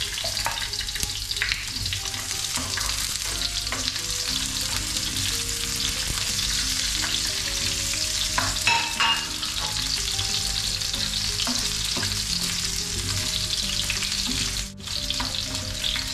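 Garlic, ginger and red onion sizzling steadily in hot oil in a nonstick frying pan, with the spatula scraping and clicking against the pan as they are stirred. The sizzle drops out for a moment near the end.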